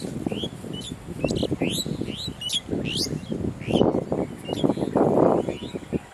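Small birds chirping, a string of short rising calls, over louder close rustling and crackling, heaviest around four and five seconds in.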